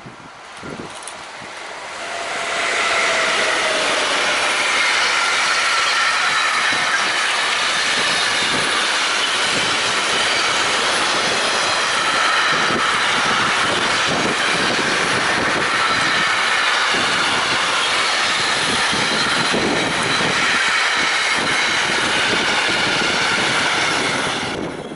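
Electric-hauled intermodal freight train passing close by: steady rolling noise of wheels on rail with several high ringing tones over it. The noise rises quickly about two seconds in as the locomotive arrives, and drops sharply near the end as the last wagon clears.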